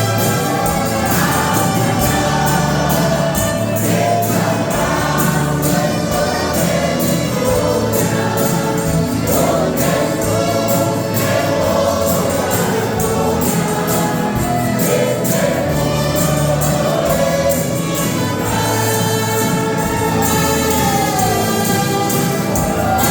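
Choir singing a Christian gospel song with band accompaniment: a bass line moving in steps under the voices and cymbals keeping a steady beat.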